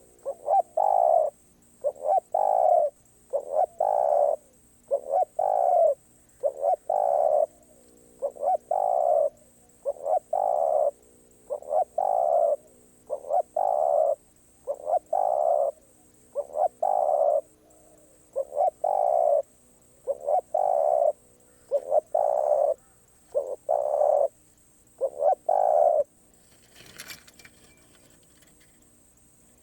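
Spotted dove cooing its repeated call, one coo phrase after another at an even pace, stopping about 26 seconds in. A brief faint rustle follows a second later.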